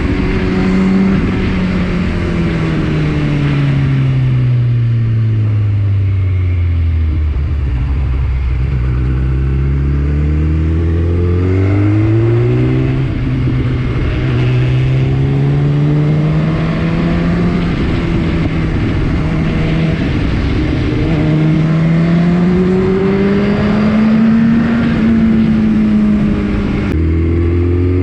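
Superbike engine heard through an Akrapovič aftermarket exhaust. Its note falls steadily for several seconds as the bike slows, then climbs again in stages as it accelerates.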